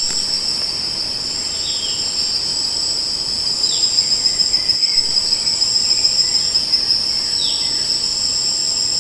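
Steady, high-pitched insect chorus, with a second thinner trill coming and going above it. Three short falling chirps stand out against it, about two, four and seven and a half seconds in.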